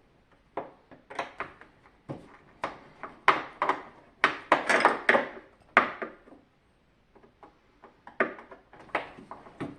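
Parts of a dehumidifier being handled and set down during disassembly: an irregular string of clicks, knocks and clatter, with a pause of about a second two-thirds of the way through.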